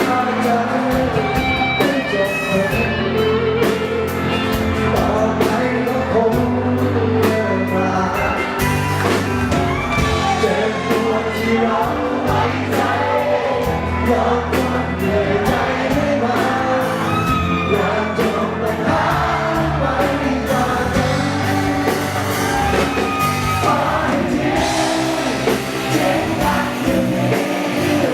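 A band playing a rock song: singing over overdriven electric guitar, with drums keeping a steady beat.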